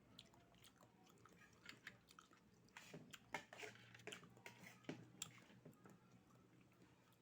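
Faint, close-up chewing of oysters, with soft wet mouth clicks and smacks that come thickest in the middle of the stretch.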